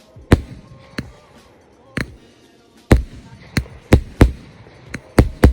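Custom 70-shot 500 g firework cake firing, about nine sharp reports at uneven spacing of half a second to a second, some in quick pairs.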